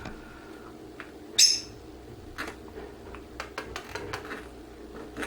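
A plum-headed parakeet gives one short, sharp, high-pitched call about a second and a half in, followed by scattered light clicks and taps.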